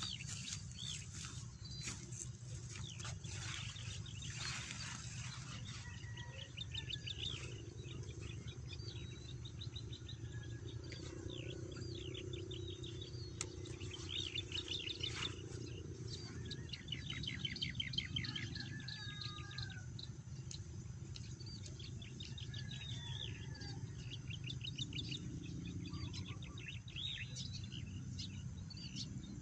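Small birds chirping and singing, with repeated short chirps and fast trills scattered throughout, over a steady low rumble. Brushing and rustling noises in the first few seconds.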